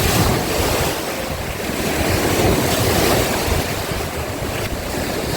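Wind buffeting the microphone over rushing, splashing water from a jet ski moving across open water, with no clear engine tone.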